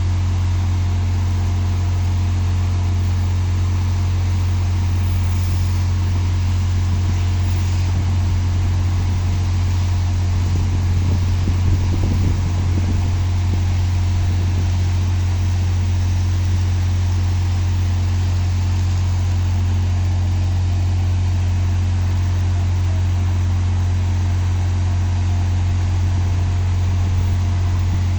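An engine running steadily at one speed, a deep even drone, with a brief slight swell about twelve seconds in.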